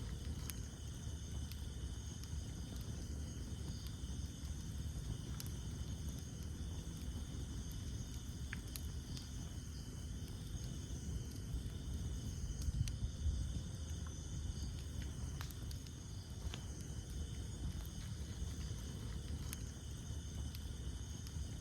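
Campfire of burning wood: a steady low rumble of flames with scattered sharp crackles and pops, over a constant high-pitched chorus of night insects.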